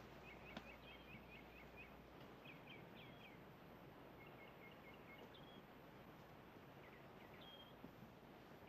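Near silence: faint outdoor ambience with a steady hiss and scattered short, high bird chirps.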